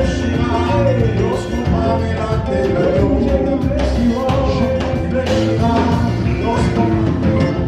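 A live gospel worship band playing an upbeat song with singing and a steady beat.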